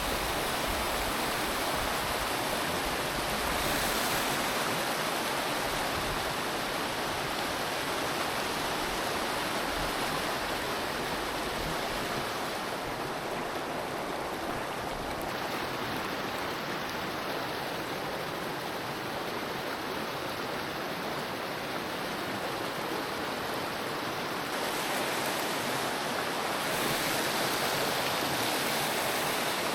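Steady rush of a mountain stream's flowing water, its tone shifting slightly a couple of times.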